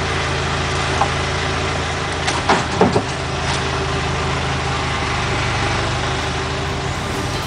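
An IHC tractor engine running steadily at idle, with a few short knocks and clunks about one to three and a half seconds in.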